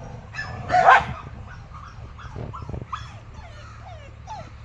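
Dogs yipping and whimpering: a run of short, high calls that each fall in pitch, with one louder burst about a second in.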